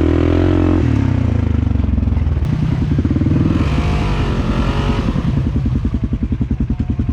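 Polaris Sportsman ATV engine running under changing throttle. Its pitch drops about a second in, rises and wavers through the middle, then settles into a slow, pulsing low-speed chug near the end.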